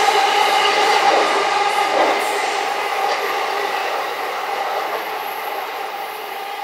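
Electric train running past on the track: a steady rumble with a level whine above it, slowly fading as the train moves away.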